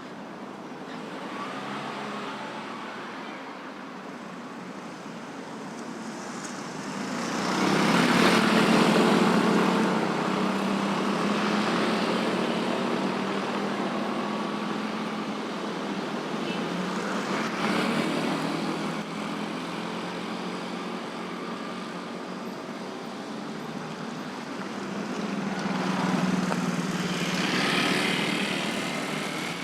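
Busy road traffic of motorcycles, cars and trucks. A steady traffic din, with engines swelling louder three times as vehicles pass close: about a quarter of the way in, around the middle, and near the end.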